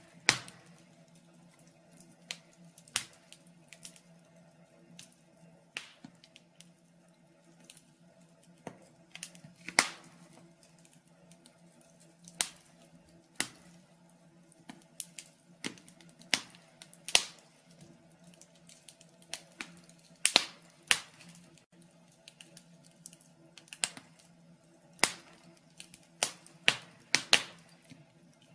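Wood fire in a fireplace crackling, with irregular sharp pops and snaps, some sudden and loud, coming in clusters at times. A faint steady hum runs underneath.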